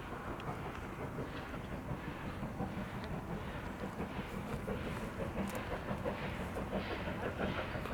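Train running past, its wheels clattering rapidly over the rails, growing busier and a little louder in the second half.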